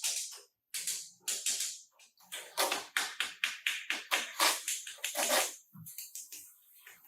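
Rapid series of short scraping or rubbing strokes on a car body panel, about four a second, with short pauses between runs.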